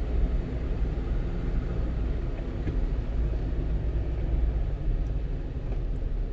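Inside the cab of a 1-ton truck on the move: a steady engine drone with tyre and road rumble.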